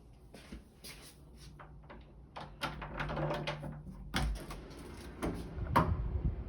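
An irregular run of household clicks and knocks, like cupboard doors, drawers or doors being handled, growing busier partway through, with two heavier thuds in the second half.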